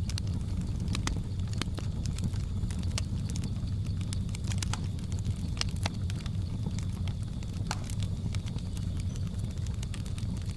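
Wood fire crackling, with irregular sharp pops and snaps over a steady low rumble. A faint, steady, high-pitched tone sits underneath.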